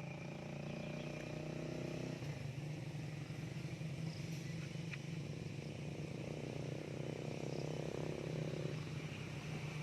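A vehicle engine running steadily at an even pitch, with a higher hum rising over it for the first two seconds and again from about six and a half to nine seconds in.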